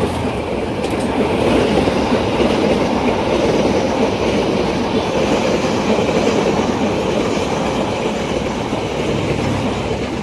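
A train passing close by, its wheels running on the rails in a loud, continuous rumble that eases slightly near the end.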